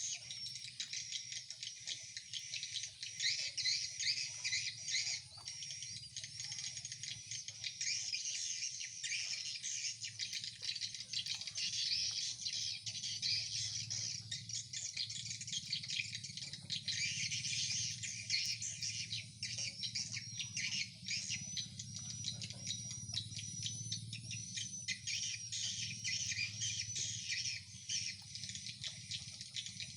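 Swiftlet lure calls (the SP call sound and SI roosting sound of a swiftlet house) keep up a dense, continuous high twittering and chittering, with a low hum underneath.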